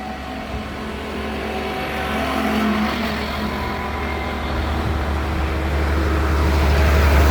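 Vehicle engine running with road noise, growing gradually louder, with a heavy low rumble that strengthens toward the end.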